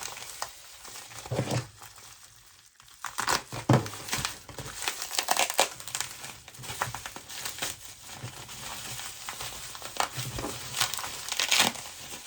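Packing material crinkling and rustling in irregular handfuls as items are unwrapped and taken out of a box, with a few louder crumples.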